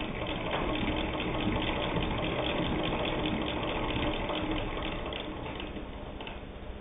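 Hand-cranked Singer 66 sewing machine stitching through cotton sheeting: a quiet, rapid, even clicking rhythm of the needle and mechanism, with no motor noise or hum. It gets softer from about five seconds in.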